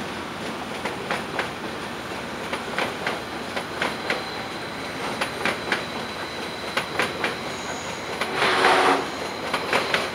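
A passing electric passenger train's wheels running over the points and rail joints: a steady rolling rumble with regular clickety-clack, the clacks often coming in quick pairs. A brief louder rasp sounds near the end.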